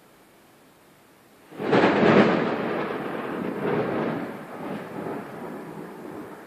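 Thunder: a sudden loud crack about a second and a half in, then a rumble that rolls on in several waves, slowly fading.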